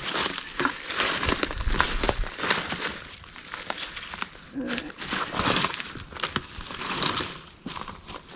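Dry black cherry wood and bark rustling and crackling, with scattered light knocks, as split pieces are handled during axe splitting.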